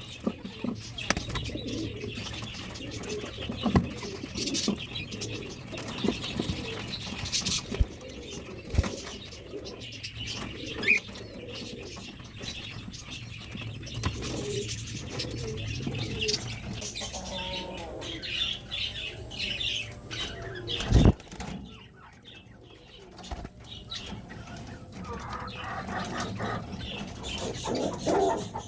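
Domestic pigeons cooing, with wings flapping and scattered light knocks and rustles, and one heavier thump about two-thirds of the way through.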